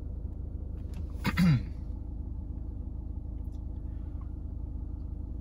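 Steady low rumble inside a car's cabin from the car's idling engine, with a brief murmur from a man about a second in.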